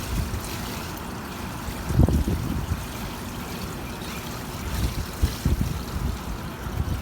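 Water trickling and splashing, with irregular low rumbles of wind on the microphone.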